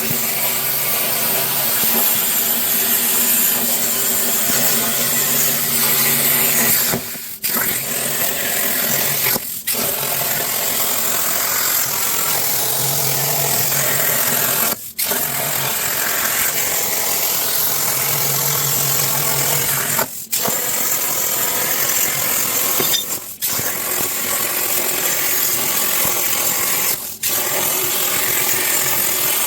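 Plasma torch on a CNC plasma cutting table cutting 3/16 in mild steel, a loud steady hiss broken by a short gap about six times.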